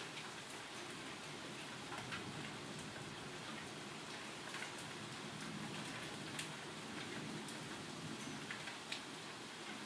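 Steady rain falling, heard faintly, with scattered ticks of drops hitting a hard surface every second or two.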